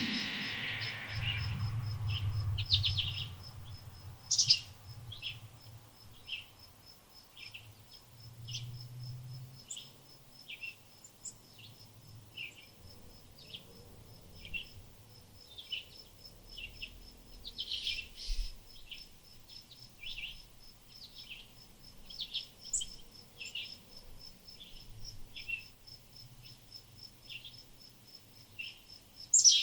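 Small birds giving short, repeated chirps over an insect's steady high-pitched pulsing, about four pulses a second, as a cricket makes. A faint low rumble comes and goes beneath.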